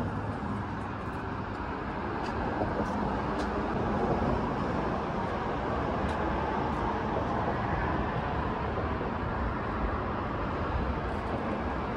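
Honda Civic inline four-cylinder engine running steadily, an even, unchanging engine sound.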